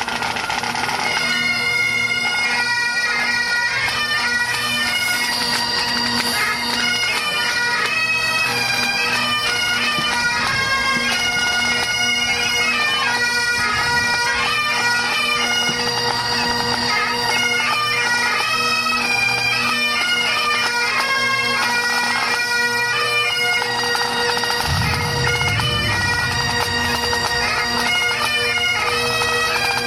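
Pipe band's bagpipes playing a tune over their steady drones.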